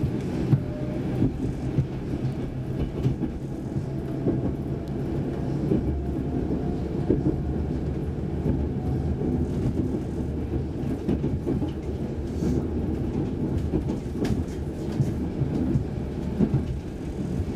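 Saltsjöbanan C10/C11 electric commuter train running, heard from inside the carriage: a steady rumble of wheels on rail with scattered clicks and knocks over the track.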